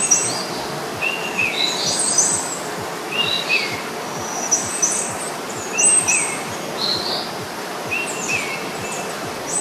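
Birds chirping: short whistled calls, some falling in pitch and some thin and high, coming in pairs every second or two over a steady background hiss.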